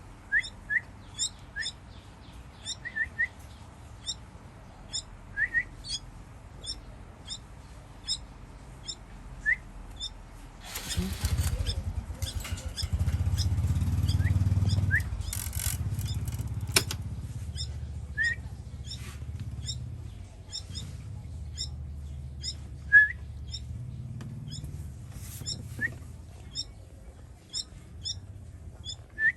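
Baby birds chirping in short, sharp, repeated peeps, about two a second, typical of nestlings begging to be fed. A low rumble rises about a third of the way in and fades over several seconds.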